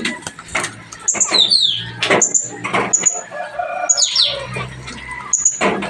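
Puling birds chirping busily, with short high chirps and quick falling whistles, among sharp flutters and knocks of wings.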